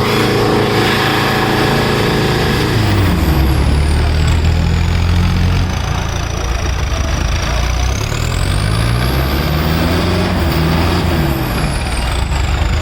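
Tractor diesel engines labouring under heavy load in a tractor tug-of-war. The engine note drops sharply about three seconds in as the engines are pulled down. Around eight to eleven seconds in the revs climb and fall again.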